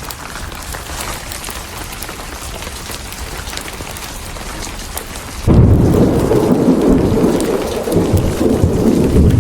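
Steady rain, then about five and a half seconds in a loud thunderclap breaks in suddenly and rolls on as a deep rumble.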